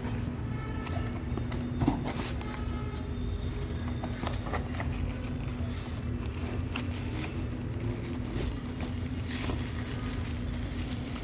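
A steady low hum with scattered small clicks and scrapes.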